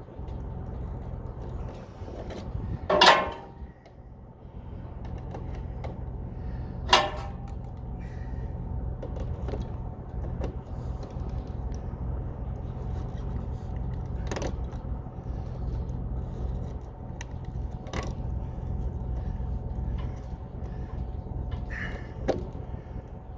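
Steady low hum of a running vehicle engine, with sharp clicks and knocks at intervals several seconds apart, the loudest about three seconds in.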